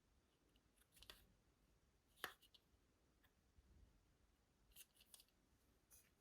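Faint handling noise: a few short, light clicks and ticks scattered through, with one sharper click about two seconds in.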